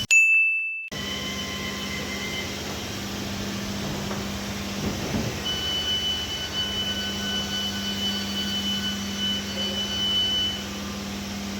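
Electric train's steady electrical hum, with a high-pitched whine from about five seconds in that stops shortly before the end. A short beep comes at the very start.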